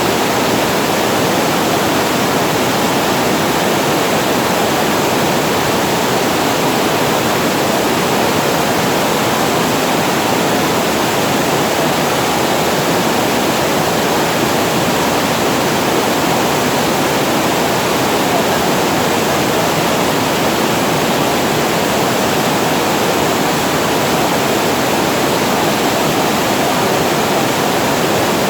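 Water pouring over a reservoir weir and falling into the pool below: a steady, loud, unbroken rush.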